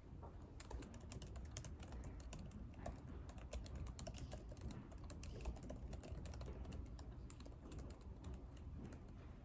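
Typing on a computer keyboard: a steady run of quick, irregular key clicks with short pauses, over a low room hum.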